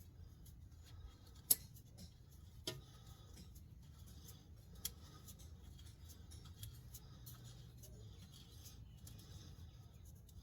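Quiet handling noises with a few sharp clicks. The loudest click comes about a second and a half in, a second about a second later, and a smaller one near five seconds.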